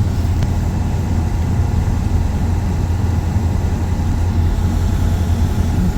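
Steady low mechanical hum of rooftop HVAC equipment running, with a few faint steady higher tones over it.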